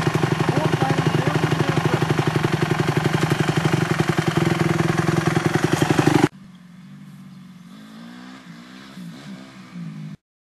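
Honda CRF250 dirt bike's single-cylinder four-stroke engine running steadily close by, with rapid, even firing pulses. About six seconds in it cuts off suddenly, leaving a much fainter sound that wavers up and down in pitch.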